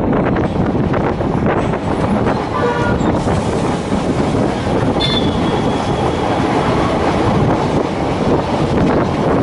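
DEMU (diesel-electric multiple unit) passenger train running, heard from on board as a loud, steady rumble. There is a brief pitched note a little under three seconds in, and a thin high tone about five seconds in that fades away.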